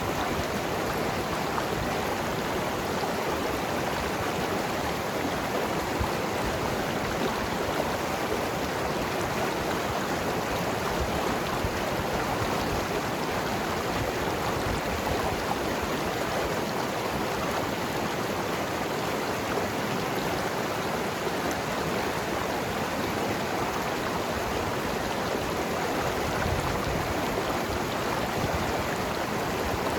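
Mountain river flowing over rocks, a steady rushing and gurgling of water.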